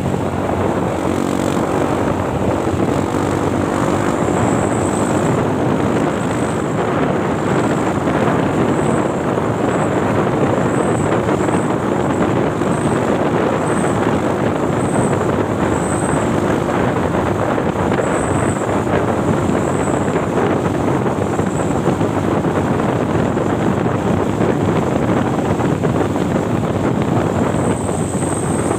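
Truck engine running steadily under heavy noise of the moving vehicle, with a faint high whistle coming and going.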